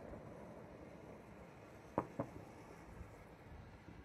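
Distant New Year fireworks going off: two sharp bangs in quick succession about halfway through, over a low steady background.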